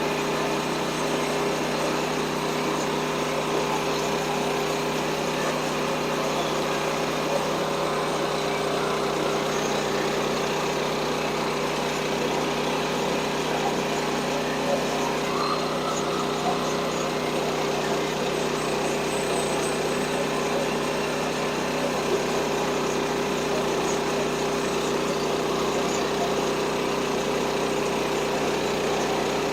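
Small gasoline engine of a portable bandsaw sawmill running steadily at a constant speed.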